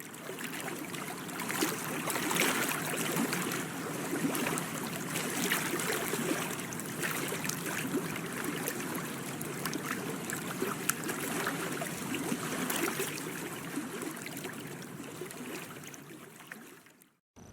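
Water splashing and lapping: a steady rush with many small splashes and drips throughout, cutting off abruptly near the end.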